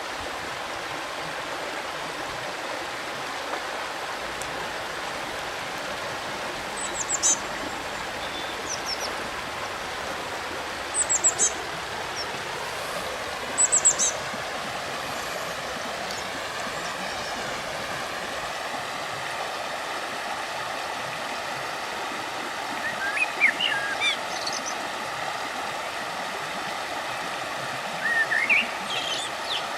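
Steady rushing of a river, with small birds chirping in short high clusters about five times over it.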